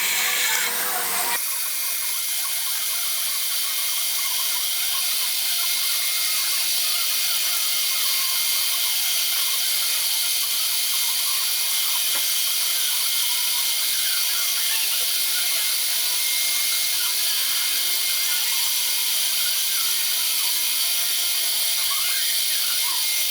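A small power tool running steadily while cutting metal parts for a model steam engine, a high-pitched whir with little low end.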